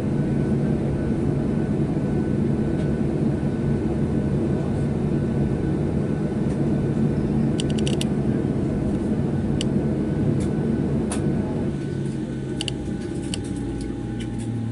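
Steady engine and air-conditioning hum inside the cabin of a Boeing 737-700 taxiing in at the end of a flight. It quietens and changes tone about twelve seconds in as the aircraft reaches its stand, with scattered small clicks from about halfway.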